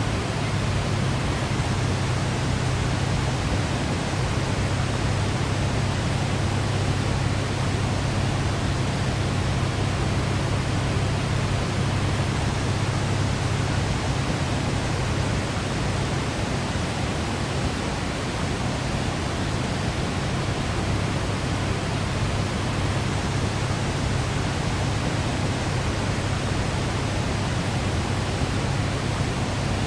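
Waterfall in Yosemite, a steady rush of falling water with a strong low rumble underneath, unchanging throughout.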